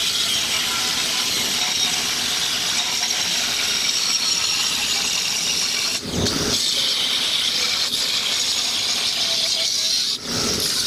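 Angle grinder working steel: a steady, hissing grind with a brief break about six seconds in, then more grinding.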